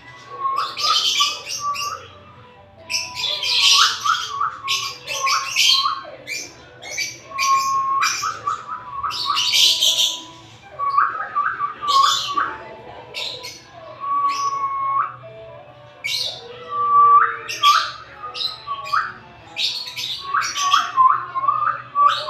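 African lovebirds chattering: rapid shrill chirps and harsh squawks mixed with short notes that flick upward in pitch, coming in bouts with brief pauses.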